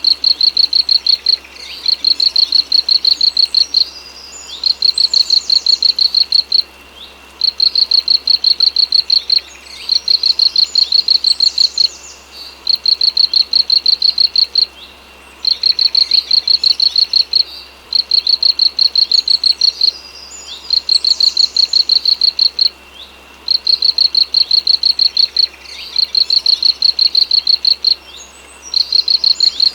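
Insect chirping in rapid trains of high, even pulses about two seconds long with short breaks between, and a bird's brief sweeping call over it every few seconds.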